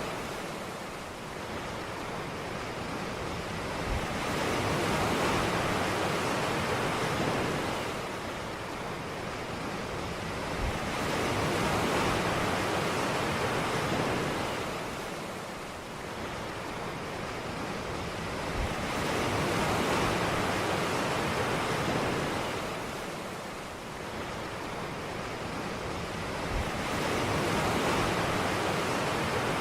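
Ocean surf on a beach: waves breaking and washing in, the rushing hiss swelling and fading about every eight seconds, four swells in all.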